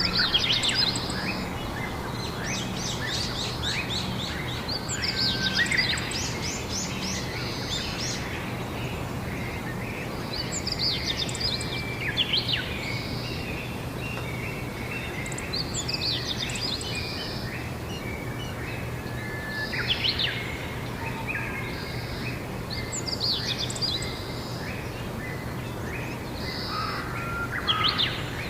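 Songbirds singing short, quick trilled and chirping phrases, one every three or four seconds, over a steady background hiss and a faint low hum.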